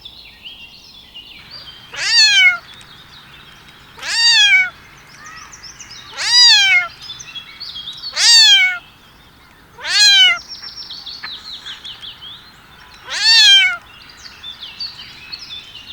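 Domestic cat meowing repeatedly, six high meows about two seconds apart, each one rising then falling in pitch.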